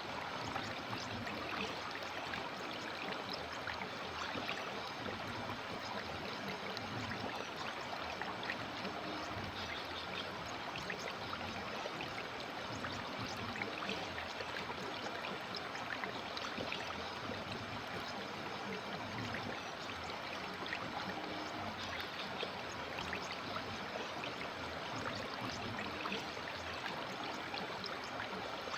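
River water flowing, a steady babble with many small splashes.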